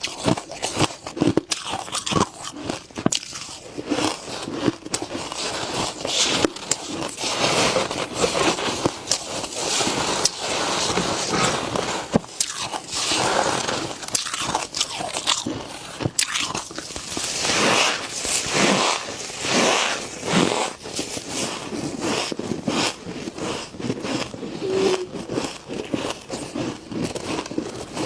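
Close-up crunching and chewing of freezer frost in the mouth: repeated crisp bites breaking up the ice, with dense crackling between them.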